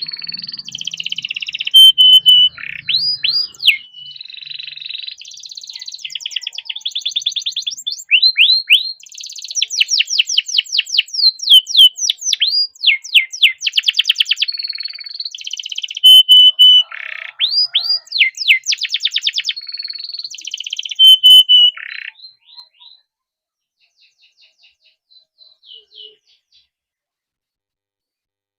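Domestic canary singing a long, fast song of rapid trills and sweeping notes. The song breaks off about 22 seconds in, followed by a few faint notes.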